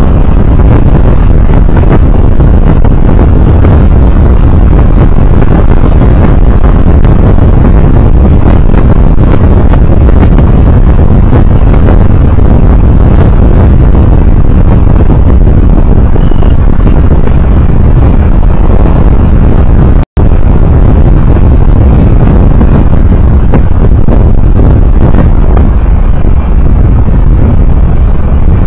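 Vehicle travelling on the road, recorded by an onboard dashcam: a loud, steady rush of wind and road noise, heaviest in the low end. The sound cuts out completely for an instant about twenty seconds in.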